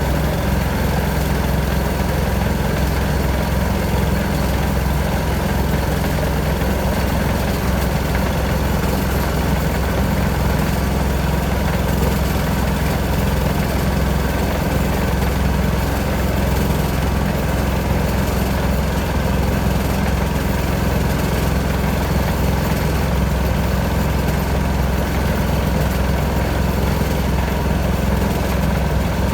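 A small boat's motor running at a steady idle-like pace, with a deep, even hum and no change in speed.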